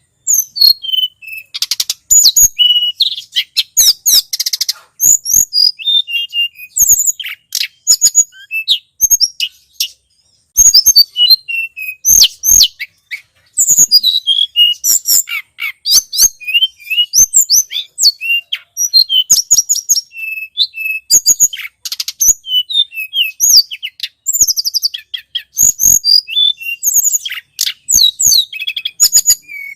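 Lure-call recording of the tledekan gunung, a small Indonesian songbird, singing: a dense, fast run of high chirps, quick trills and sweeping whistled notes with only brief pauses, one of them about ten seconds in.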